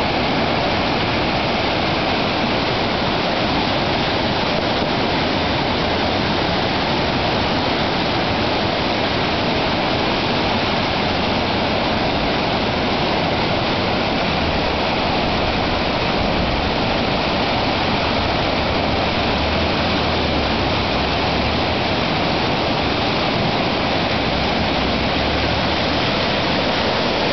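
Flooded mountain stream, swollen by days of rain and sleet and running almost bank-full, rushing in a loud, steady wash of water.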